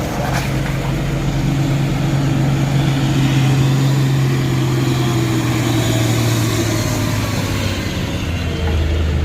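Heavy vehicle engine running steadily at close range, its pitch stepping down about eight and a half seconds in.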